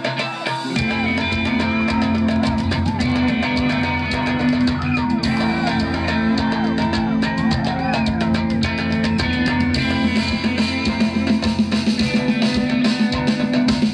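Live band music: guitar over drums, with a bass line that comes in about a second in.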